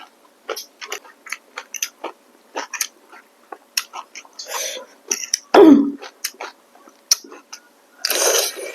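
Close-miked eating sounds: a quick irregular series of wet clicks and smacks from chewing. About five and a half seconds in comes a louder short vocal sound falling in pitch, and near the end a longer noisy rush.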